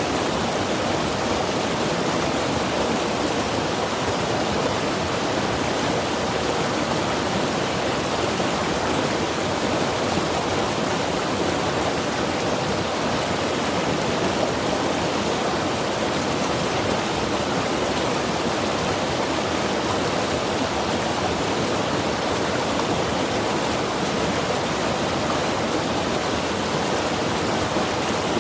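Mountain river rushing steadily over rocks, a dense even roar of moving water.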